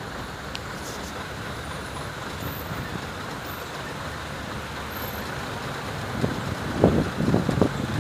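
Steady road traffic noise on a motorway, with a cluster of short, louder bursts in the last two seconds.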